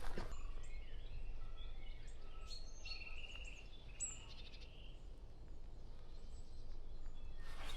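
Several wild birds singing and calling: a mix of short chirps, whistled notes and quick trills, busiest from about a second and a half to five seconds in, over a steady low rumble.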